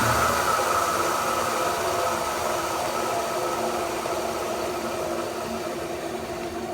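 Burr King Model 760 grinder with its Baldor electric motor coasting down after being switched off: a steady whir that fades gradually.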